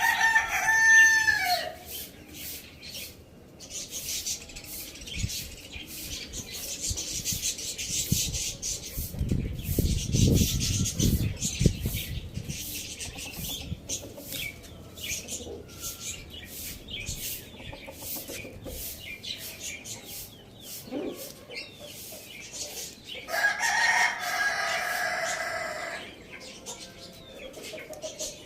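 A rooster crowing at the start and again near the end with a longer crow of about three seconds, with chickens clucking and many short clicks in between.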